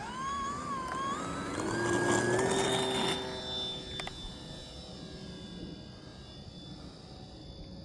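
Brushless electric motor and propeller of an FMS Cessna 182 1500mm RC plane throttling up in a rising whine over the first two or three seconds, then fading as the plane flies away.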